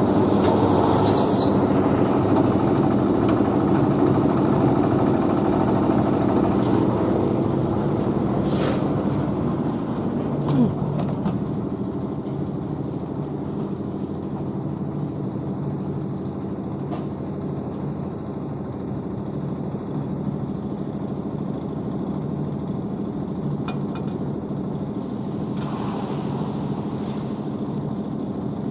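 An engine running steadily, somewhat louder for the first ten seconds or so and then settling, with a few scattered knocks.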